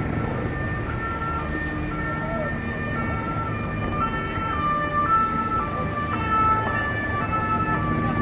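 Two-tone emergency vehicle sirens alternating between a high and a low note about every half second, more than one siren overlapping, over a low rumble of vehicle engines and traffic.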